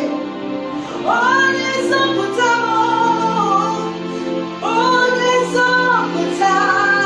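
A woman singing a slow, sustained worship song over held keyboard or pad chords, in long phrases with gliding notes.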